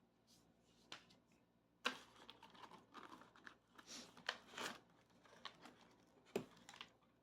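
Gift-box packaging being handled and unwrapped: irregular crinkling and rustling of wrapping, with a sharp knock about two seconds in and another near the end.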